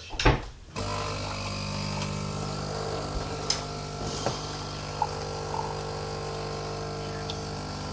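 Bean-to-cup coffee machine running its pump with a steady buzzing hum as it dispenses a flat white, with a few faint ticks.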